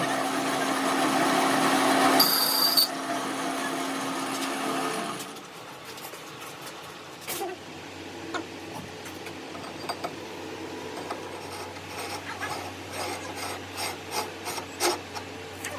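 A workshop power tool runs steadily with a rasping, rubbing sound and stops about five seconds in. Scattered light clicks and knocks from handling metal parts follow.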